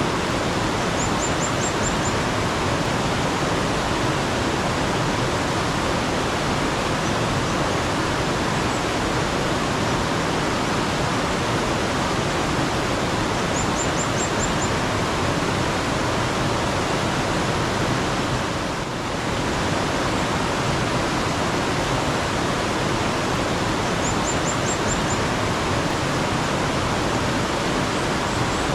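Steady rush of flowing water from a mountain stream. Three times, roughly every eleven seconds, a small bird gives a short run of about five quick, high chirps above it.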